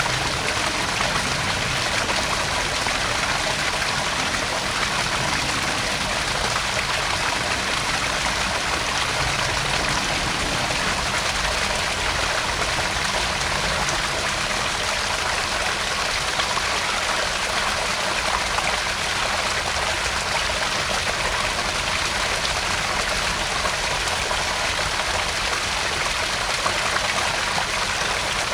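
Garden pond waterfall: water spilling and splashing steadily into the pond.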